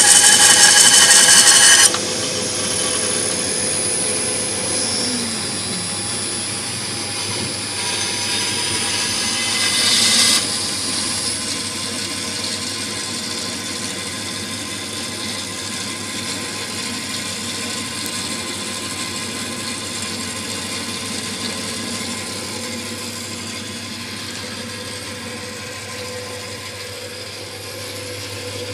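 Small electric motor and saw of a miniature sawmill running: a loud, high whine for about the first two seconds, which then drops to a quieter steady run, with a brief swell around ten seconds in.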